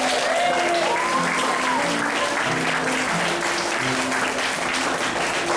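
Audience applauding loudly over a piano playing a simple melody, with a few voices whooping in the first second or so.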